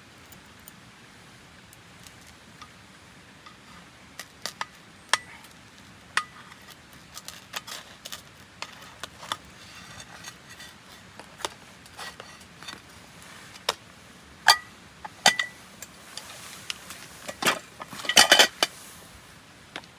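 Cookware and utensils being handled: irregular clinks and taps, some with a brief metallic ring, quickening into a rapid flurry near the end, over a steady hiss of flowing river water.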